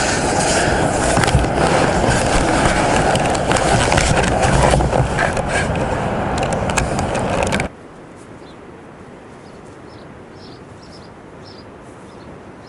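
A loud steady rushing noise that cuts off abruptly about eight seconds in, giving way to a quiet outdoor background with a few faint bird chirps.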